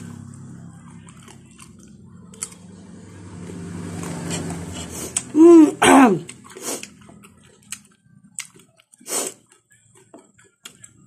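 Close-up chewing and wet mouth smacks from eating papaya dipped in bagoong, over a low hum in the first half. About halfway through comes a short, loud voiced sound that falls in pitch, followed by a few sharp mouth clicks.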